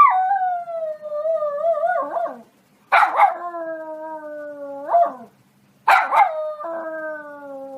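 Dog howling back, three long drawn-out howls each about two seconds long. Each starts with a sharp yelp, then wavers and slides slowly down in pitch: a dog's vocal protest at being scolded.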